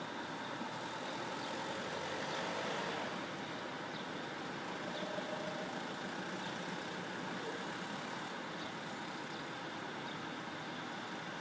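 Diesel coach engine idling steadily.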